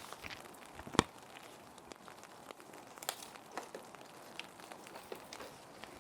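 Plastic sheet protectors crinkling and rustling as they are handled, with scattered small clicks and one sharp tap about a second in, over a steady hiss of background rain.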